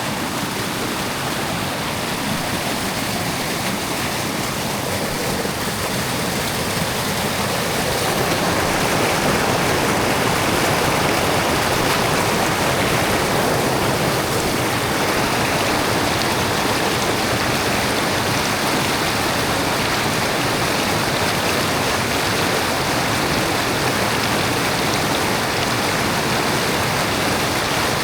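Running water of a stream rushing steadily, growing a little louder about eight seconds in.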